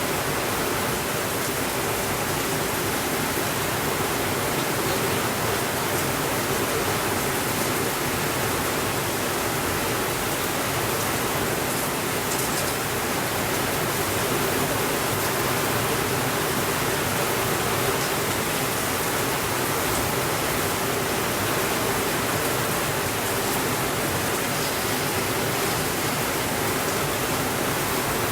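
Steady rainfall: an even, unbroken hiss with a few faint ticks of drops, and no thunder.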